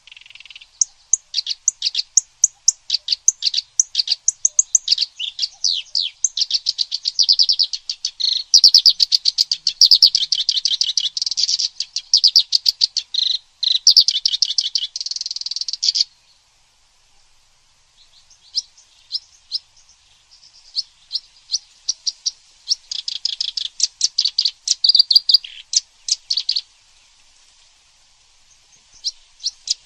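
Recorded song of kerak basi (clamorous reed warbler) and cililin birds: rapid, high chirps and trills in dense runs. It breaks off about 16 seconds in and resumes about two seconds later, fainter near the end.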